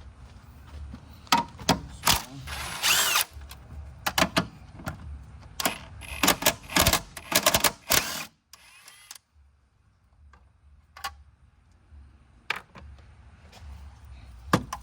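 Handheld power tool run in several short bursts, backing out engine-mount bolts. It goes quiet about two-thirds of the way through, leaving only a few single clicks.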